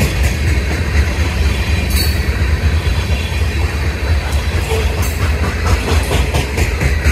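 Covered hopper cars of a freight train rolling past close by: a steady low rumble of steel wheels on rail, with a few sharp clicks as the wheels pass.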